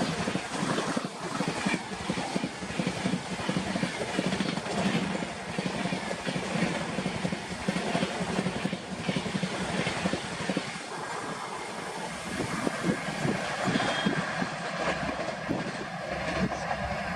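Express train passing at high speed, its coaches making a continuous loud rattle and clatter over the track.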